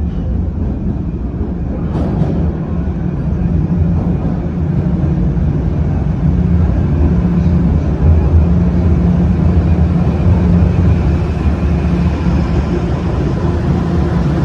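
Toronto subway train running in a station, a loud steady low rumble that grows a little louder about halfway through; a faint high whine joins in the last few seconds.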